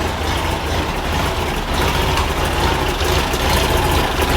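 Air-cooled flat-four engine of a 1950s VW Bus running steadily with a deep rumble.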